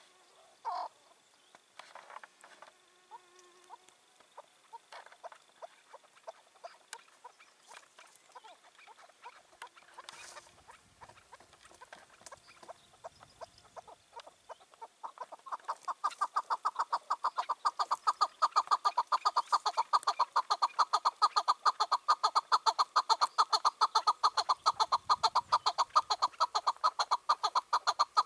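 Chukar partridge calling: scattered short notes at first, then from about halfway a long, rapid run of repeated chuck notes, getting louder and keeping on.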